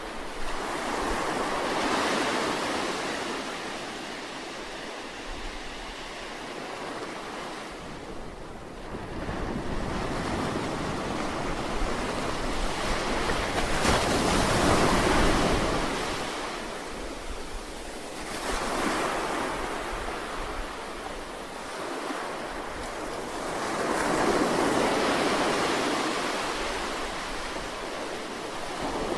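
Sea waves breaking and washing up on the shore, the surf swelling and falling away in slow surges every several seconds, with the longest and loudest surge near the middle.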